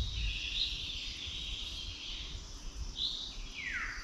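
Songbirds singing: a run of whistled phrases, with a falling note near the end.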